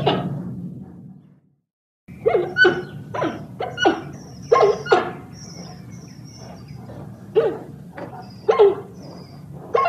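Panda calling: a string of about ten short, barking calls in quick succession, starting after a brief silence about two seconds in.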